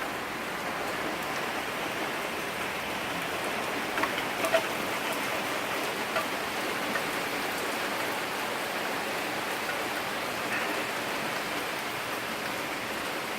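Steady rain falling during a rain storm, an even hiss of rain on surfaces, with a few sharper taps about four seconds in and again near six seconds.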